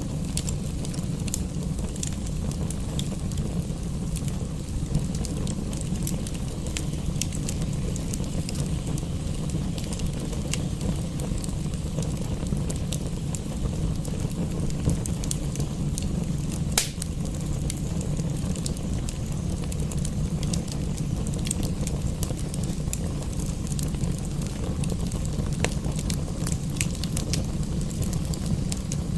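Wood fire crackling in a fireplace, with scattered sharp pops over a steady low rumble; one louder pop comes a little past halfway.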